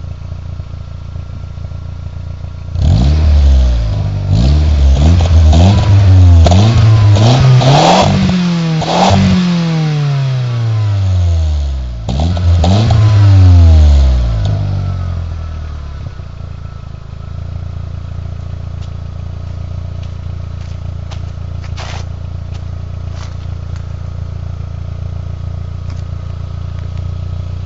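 VW Golf IV 1.8T's turbocharged four-cylinder engine through a YED aftermarket exhaust, idling, then revved in a run of blips from about three seconds in until about sixteen. Each rise is quick and each fall slower, with a few crackles as the revs drop, before it settles back to a steady idle.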